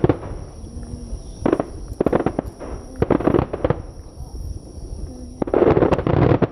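Starmine fireworks going off in volleys of sharp reports: several quick clusters of booms, with the longest and loudest cluster near the end.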